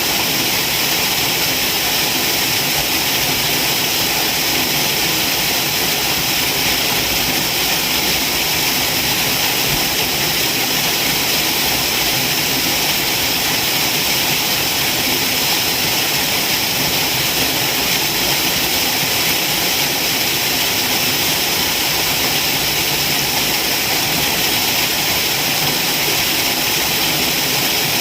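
Waterfall: a steady, unbroken rush of falling water, heavy on hiss.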